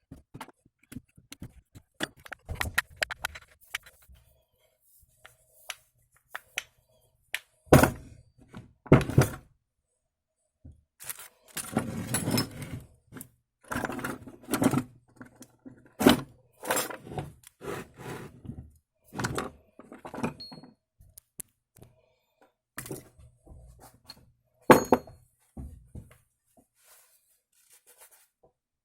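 Irregular metal knocks, clinks and scrapes of hand tools and parts being handled, with several louder thuds along the way.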